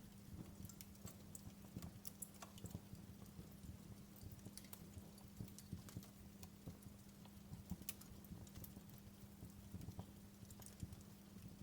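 Wood fire crackling in a fireplace: irregular small pops and snaps at no set rhythm, over a faint low steady hum.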